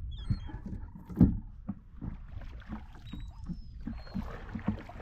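Water slapping against a kayak's hull in short, regular knocks about twice a second, with one louder knock about a second in. Birds call high and thin in the background.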